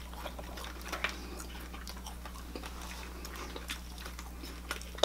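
Eating at close range: scattered small clicks and smacks of chewing and food being handled, over a steady low electrical hum.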